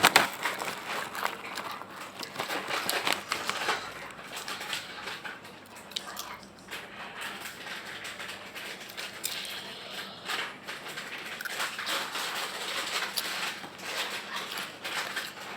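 Close-miked chewing and crunching of a crispy snack: irregular crackles and crunches that come and go in bursts.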